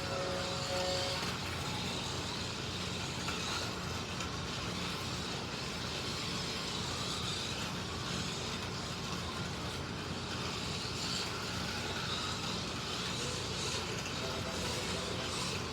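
Several 1/32-scale slot cars lapping a plastic track, their small electric motors and tyres making a steady whirring hum. A short steady electronic tone sounds right at the start.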